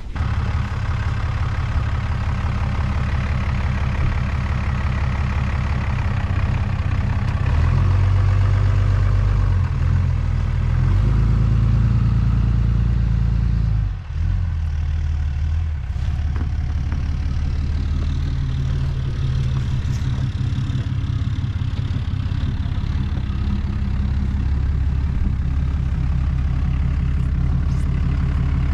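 Diesel engine of a piece of heavy equipment running. Its note changes for several seconds midway, dips briefly about 14 seconds in, then it runs steadily again.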